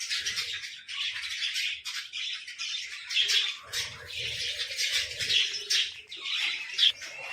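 Birds chattering and chirping without pause, a dense stream of quick, harsh chirps with louder peaks every second or so.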